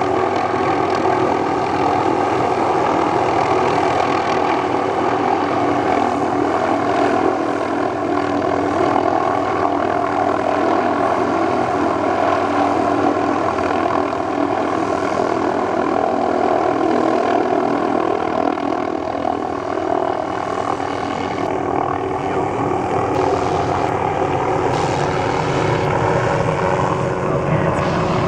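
Tree-trimming helicopter running steadily, its engine and rotor making a continuous sound throughout.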